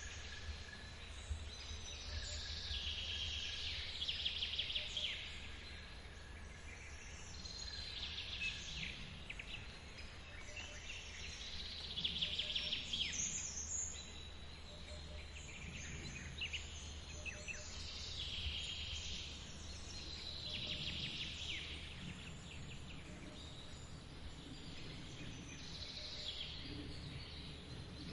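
Forest ambience: a bird sings the same fast trilled phrase again and again, about every four seconds, over a steady low rush of running water.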